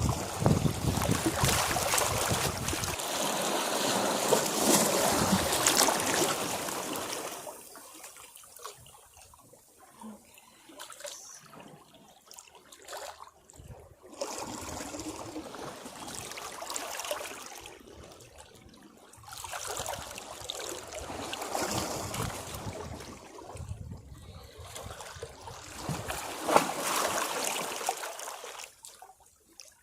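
Sea waves washing against rocks: a surge of breaking water, then quieter trickling and draining as it recedes, and another surge about twenty seconds in.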